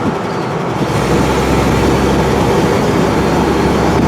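Freshly rebuilt 235 straight-six of a 1962 Chevy C10 pickup running while driving, just shifted into third, heard from inside the cab with road noise; a steady low drone comes in about a second in. The engine is noisy, which the owner expects to quieten once the rockers are adjusted.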